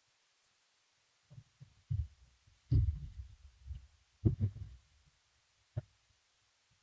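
Several separate dull, low thumps, the loudest about three seconds in, then a short sharp click near the end.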